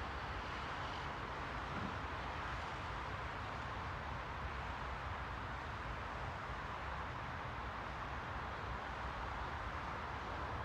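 Steady white-noise ambience: an even rushing hiss centred in the midrange over a low rumble, with no distinct events.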